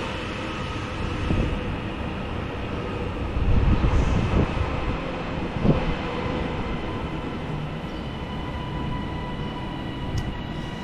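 Class 397 electric train standing in the platform: a steady electrical whine over a low rumble, with a few heavier knocks about four and six seconds in.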